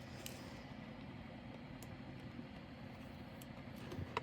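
Steady low background hum with a few faint light clicks from small plastic bags of diamond painting drills being handled.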